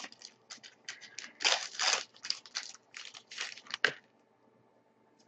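A hockey card pack's wrapper being torn open and crinkled, with the cards handled, as a run of irregular rustles and crackles that stops about four seconds in.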